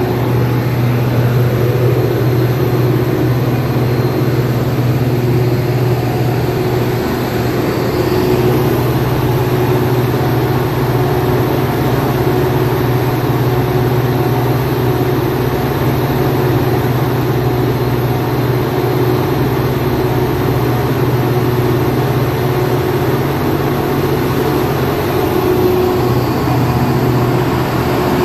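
Diesel locomotive engine running steadily at idle, a constant low hum with no change in speed.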